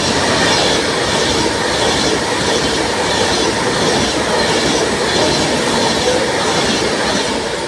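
Avanti West Coast Class 390 Pendolino electric train passing through at speed: a loud, steady rush of wheel and air noise with a regular beat, easing slightly near the end.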